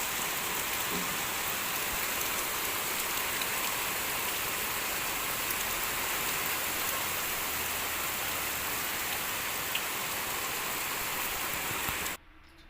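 Heavy monsoon-type downpour: a dense, steady hiss of rain that cuts off abruptly near the end.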